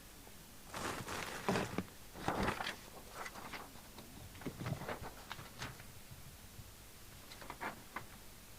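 Handling noises on a workbench: short rustles and a few sharp clicks as cables and parts are moved about, in bursts with pauses between.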